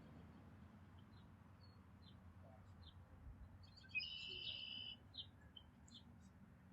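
Faint birds chirping with short, sparse high calls, and one louder call held for about a second about four seconds in.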